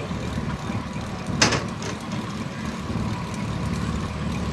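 Steam-powered sawmill running, a 1926 Keck Gonnerman steam traction engine driving it: a steady low mechanical rumble with a fast flutter. About a second and a half in comes one sharp, noisy burst, then a fainter one just after.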